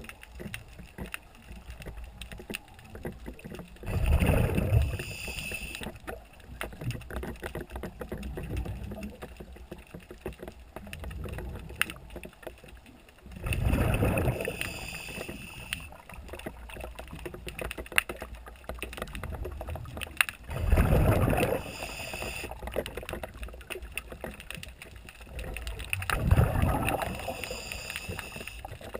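Noise of a small boat on the water: a low steady rumble with four louder surges, each lasting a second or two, several seconds apart.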